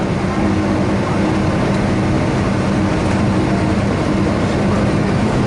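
Cabin noise inside a Boeing 757-200 with its jet engines running: a steady loud rush with a low, even hum.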